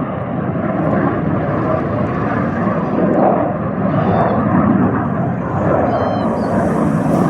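Jet noise of a single BAE Hawk jet trainer departing: a loud, steady rushing rumble that swells and eases a little.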